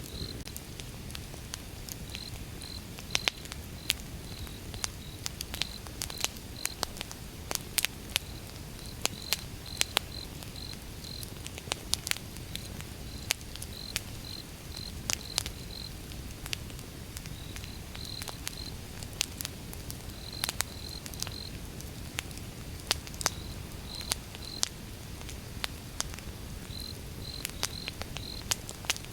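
Wood fire burning: sharp, irregular crackles and pops over a low steady rumble. A cricket chirps throughout in short runs of a high note at one pitch.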